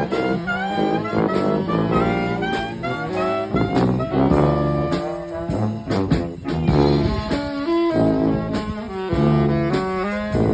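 A brass band playing live, an upbeat jazzy tune with horns carrying the melody over a low brass bass line and a steady drum beat.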